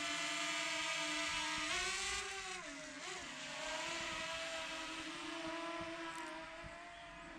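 Quadcopter drone's propellers whining steadily in flight. The pitch rises briefly about two seconds in, then dips and settles as the motors change speed.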